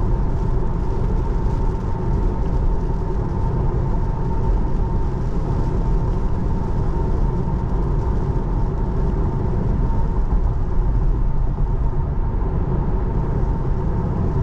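Steady road and tyre noise heard from inside the cabin of a 2024 Tesla Model 3 Long Range driving on wet pavement, a low rumble with a hiss above it and a faint steady hum.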